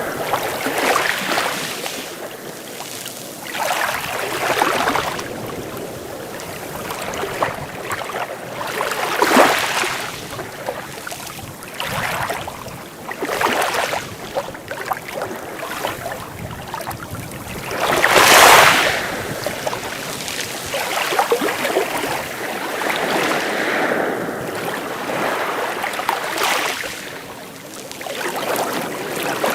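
Sea waves breaking and washing ashore in irregular surges every few seconds, with the largest wave crashing about eighteen seconds in.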